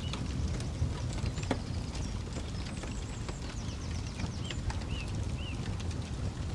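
Campfire crackling, with frequent sharp pops over a steady low rumble. A few small bird chirps come in around the middle.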